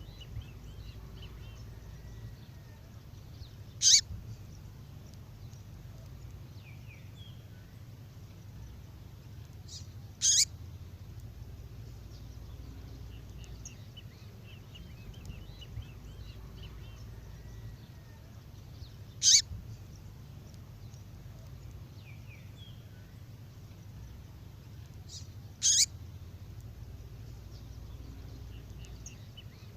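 Recorded female songbird call played back: four short, loud, high-pitched calls spaced about six to nine seconds apart, with faint chirping between them and a low steady hum underneath. The pattern repeats about every fifteen seconds, as a looped call track would.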